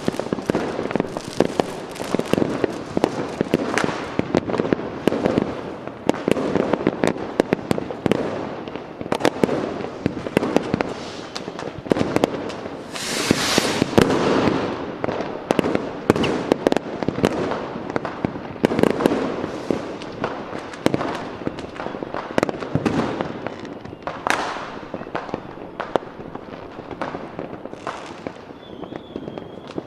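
A continuous barrage of fireworks: dense, rapid bangs and crackling with a deep rumble. A rocket's hiss about halfway through, and a short whistle near the end.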